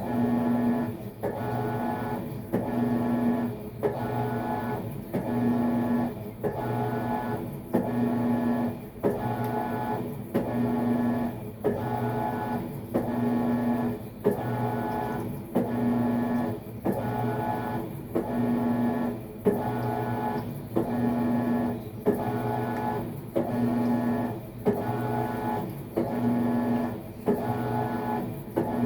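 Maytag MVWX655DW1 top-load washer agitating during a tub-clean cycle: the motor hums in repeated strokes, about one a second, as the wash plate swings back and forth.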